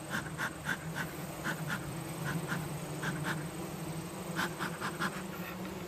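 Bee smoker's bellows being squeezed, puffing smoke at a honey bee hive in short airy whooshes, a couple a second with a short pause about midway. A steady low hum of honey bees runs underneath.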